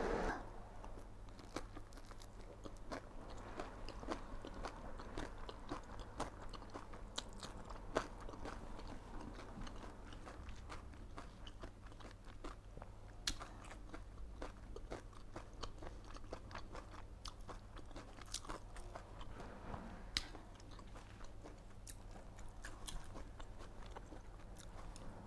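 A person chewing and biting into spring rolls, heard close up: many small crunches and mouth clicks, scattered irregularly, with a few louder bites. A faint steady low hum runs underneath.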